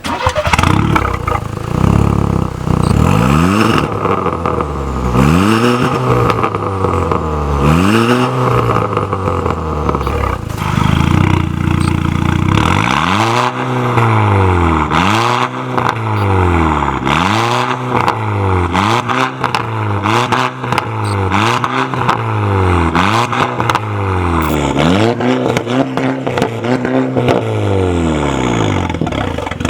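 Volkswagen Golf Mk6 R's turbocharged 2.0-litre four-cylinder being free-revved through an Armytrix valvetronic exhaust, loud and repeated. First come a few separate rev sweeps, then a steady held stretch, then a quick run of short throttle blips about one every second and a half, with sharp cracks from the exhaust between them.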